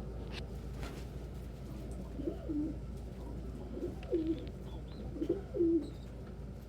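Domestic pigeons cooing: several short, low, wavering coos from about two seconds in, with a few faint high chirps.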